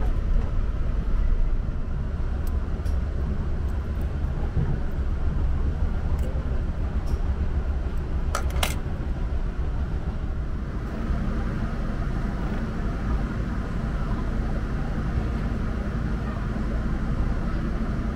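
Passenger train running, a steady low rumble heard from inside the carriage that shifts in tone about ten seconds in. A brief high-pitched sound comes about eight seconds in.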